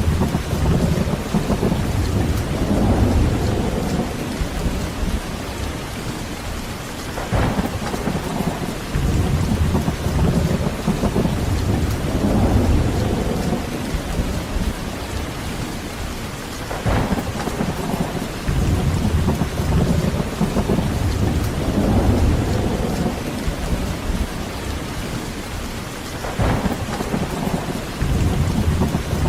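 Steady heavy rain with rolling thunder: low rumbles swell and fade in several waves, and three sharper cracks come about nine seconds apart.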